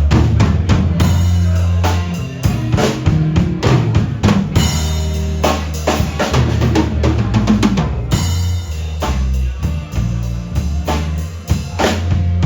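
Live band playing a blues number, with a loud drum kit hitting a steady beat over sustained bass notes.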